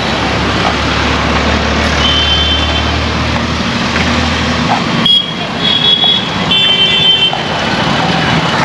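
Busy market traffic din. A vehicle engine runs close by for the first four and a half seconds. Short, high-pitched electronic beeps recur in small groups throughout.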